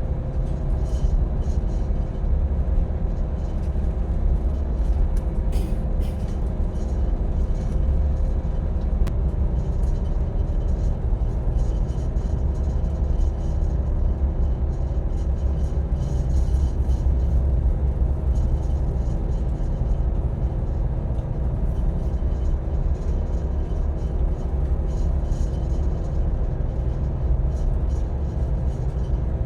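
A boat's engine running steadily under way, a heavy low rumble with a steady hum over it. Rushing wind and sea noise flicker over the top.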